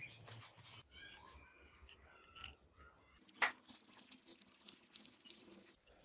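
Light clicks, taps and short scraping squeaks from hand work on small parts, with one sharper click about three and a half seconds in.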